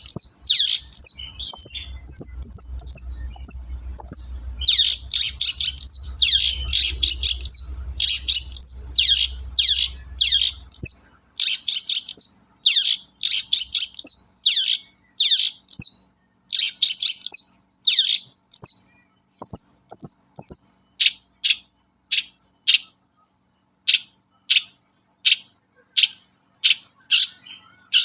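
Long-tailed shrike (cendet) singing hard: bursts of fast, harsh chattering phrases, then from about two-thirds in a run of short, separate downward notes at about two a second. A faint low rumble runs under the first part and stops.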